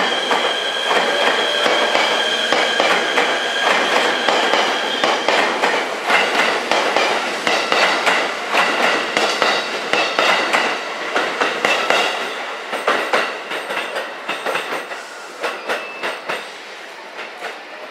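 JR 253 series 1000-number electric multiple unit pulling away. Its wheels squeal in steady high tones for the first five seconds or so, then its wheels clatter rapidly over rail joints and points, fading over the last few seconds as it moves off.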